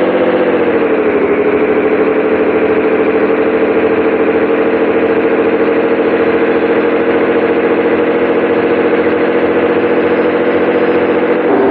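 Scania 113H 360 truck's six-cylinder diesel engine running steadily and loud. Its note dips about a second in, climbs slowly, then drops again near the end.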